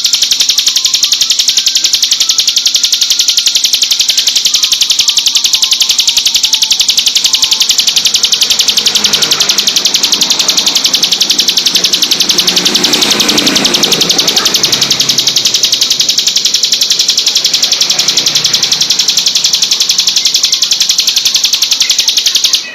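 Ciblek gunung, a prinia, singing a continuous rapid-fire trill of sharp high notes in the 'tembakan' style.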